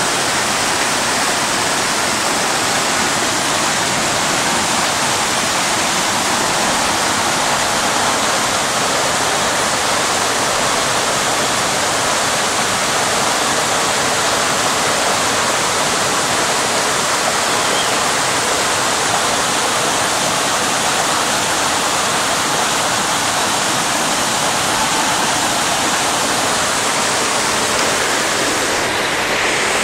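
Rainwater rushing in a heavy, steady flow: a loud, even noise of water that does not let up.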